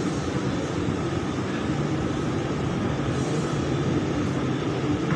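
Steady running noise inside a BTS Skytrain carriage in motion: an even rumble and hum from the train and its wheels on the elevated track.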